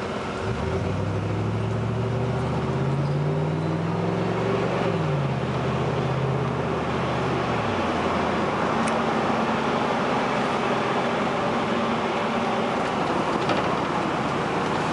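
Car engine accelerating, its pitch rising for a few seconds, dropping sharply at a gear change about five seconds in and rising again, then settling into a steady cruise over continuous road and tyre noise, heard from inside the car.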